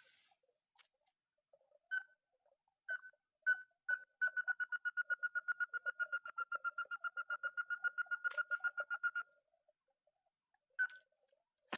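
Crake (burung tikusan) calling: a few single piping notes, then a fast run of about nine notes a second lasting some five seconds, then single notes again.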